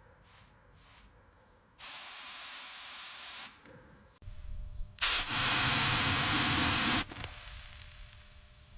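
Two long bursts of spraying hiss: a first of about a second and a half, then a louder one of about two seconds that starts with a sharp hit.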